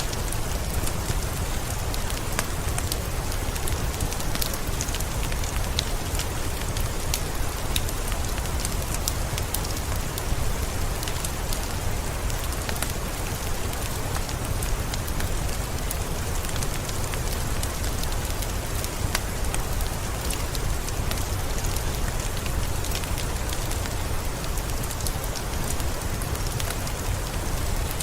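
Heavy rain falling steadily, with a dense patter of drops hitting surfaces over a deep low rumble.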